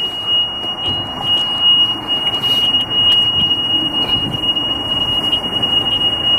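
A continuous high-pitched electronic tone, steady in pitch and unbroken, like an alarm buzzer, over a background of low noise.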